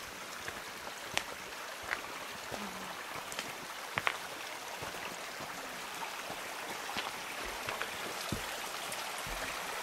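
Steady hiss of running water, with scattered faint ticks.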